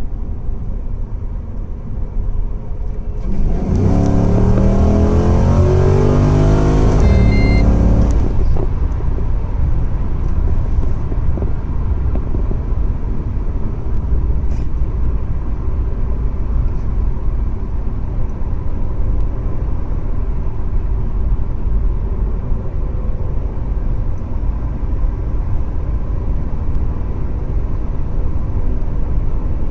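V8 of a Holden VZ Commodore SS (Chevrolet Lumina SS) on its stock cat-back exhaust, making a full-throttle drag run. The engine note climbs in pitch in several steps over about five seconds, starting about three and a half seconds in, then settles into a steady low rumble.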